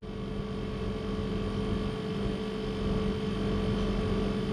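Air-conditioning unit running during a gas refill, a steady mechanical hum with a few steady tones.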